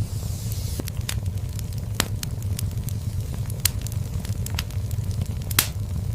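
Wood fire burning in a fireplace: a steady low rumble of flames with frequent sharp crackles and pops, the loudest pops about three and a half and five and a half seconds in, and a short hiss in the first second.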